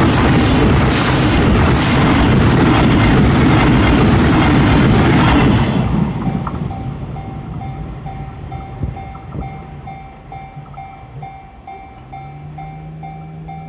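A train passes a level crossing with loud rumble and wheel clatter that fades away about six seconds in. The crossing's warning bell keeps ringing in steady, evenly repeated dings. A low steady hum starts near the end.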